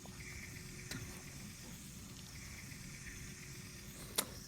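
Faint steady hiss with a low rumble, a small click about a second in and a sharp click near the end.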